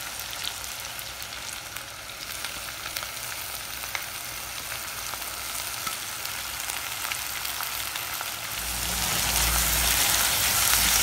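Sliced onions sizzling in hot oil in a pan, a steady hiss with small crackling pops. It gets louder in the last few seconds as cubed potatoes go in and are stirred with a spatula.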